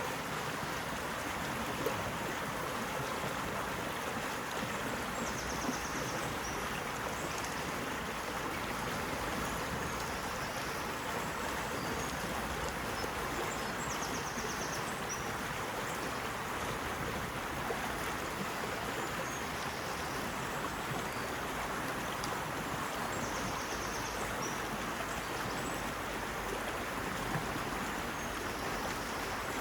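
Steady rushing and babbling of a flowing stream, with faint high chirps recurring every few seconds.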